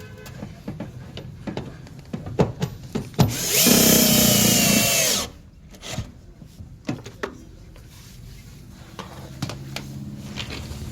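A power drill runs for under two seconds, about three and a half seconds in, then stops. Around it come scattered clicks and knocks.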